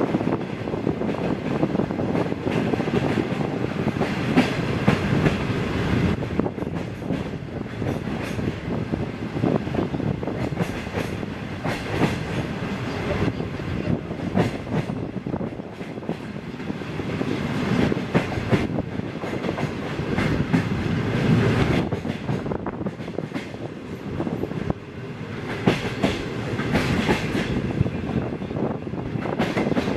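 Wheels of a 25B passenger coach running over the rails, heard through an open window of the moving train: a steady rumble with frequent clacks over rail joints.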